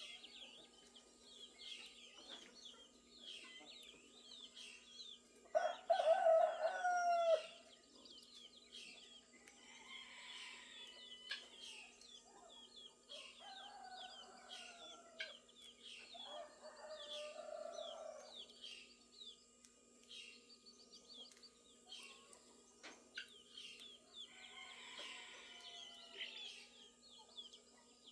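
A rooster crows once loudly about six seconds in, and two fainter crows follow in the middle. Small birds chirp steadily throughout.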